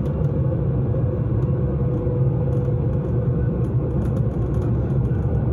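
Vienna S-Bahn S45 commuter train running, a steady low rumble with a faint steady hum above it.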